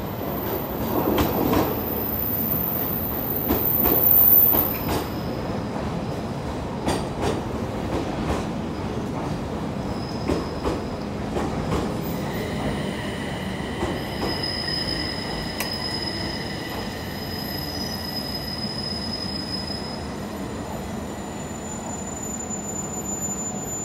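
JR East E721 series electric train pulling into the platform: wheels click over rail joints with a high wheel squeal, loudest about four seconds in. About halfway through, a steady whine of several high tones sets in as the train slows to a stop.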